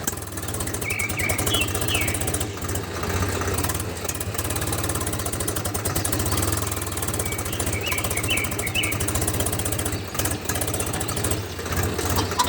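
A homemade mini tractor's small motor running steadily with a low, fast-pulsing hum. Birds chirp briefly twice, about a second in and again near eight seconds.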